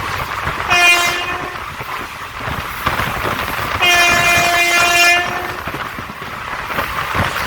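Train horn sounding twice, a short blast then a longer one, over the steady noise of the train running along the track.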